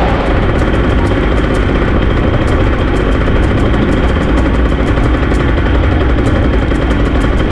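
Drag race car engines running loud and steady.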